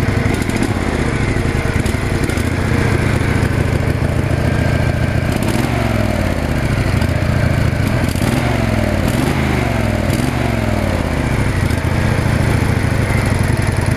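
Two-cylinder riding lawn mower engine running steadily just after a cold start, with the engine speed wavering up and down a little midway. It now fires on both cylinders after a repair; it had long run on only one.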